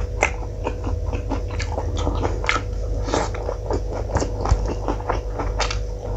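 Close-miked eating by hand: wet chewing and lip-smacking of a mouthful of rice and curry, with the squish of fingers mixing rice on the plate, heard as a dense run of short, wet clicks.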